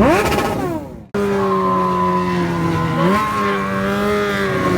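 A motorcycle engine revved up and back down. After a sudden cut, an engine is held at steady high revs, its pitch stepping up a little about three seconds in.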